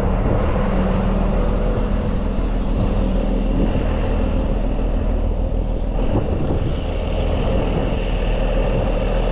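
A large truck's diesel engine idling steadily.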